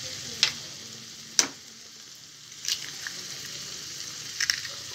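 Onion-tomato masala frying in oil in a kadhai, with a steady sizzle as raw eggs are cracked into it. A few sharp taps against the pan punctuate the sizzle, the loudest about a second and a half in.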